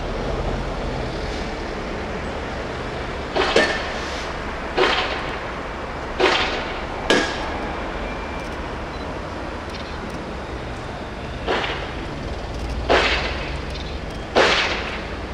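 Class 66 diesel locomotive and its loaded ballast wagons moving slowly, with a steady low engine rumble. Over it come seven sharp clanks, mostly about a second and a half apart, with a longer gap in the middle.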